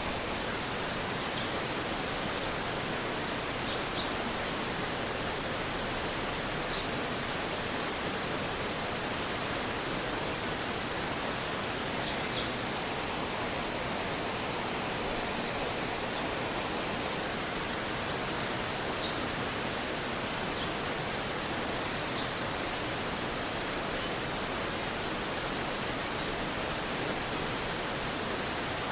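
Stream water flowing steadily, a constant rushing wash. Short, high chirps break in every three or four seconds.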